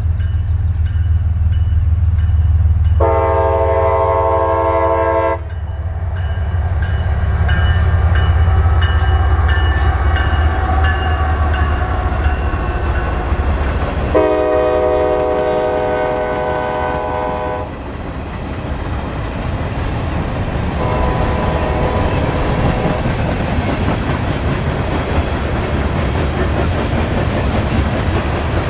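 A CSX freight train passing. The diesel locomotive's multi-note horn sounds a long blast a few seconds in, another about halfway through and a shorter, fainter one soon after, over a deep engine rumble. In the second half the rumble gives way to the steady rush and clatter of the freight cars rolling on the rails.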